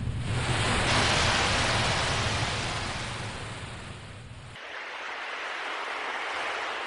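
Ocean waves washing in: one loud surge swells and recedes, then a smaller second wash follows. A low rumble under the first surge cuts off suddenly about two-thirds of the way through.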